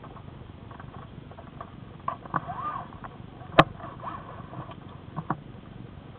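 Acura TSX engine running at low speed, a steady low hum heard from inside the cabin, with several sharp clicks, a brief squeak, and one loud sharp knock about three and a half seconds in.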